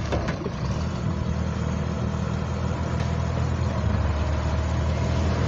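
2001 Blue Bird All American bus engine running at low revs while the bus is manoeuvred slowly, a steady low drone that grows a little louder in the second half.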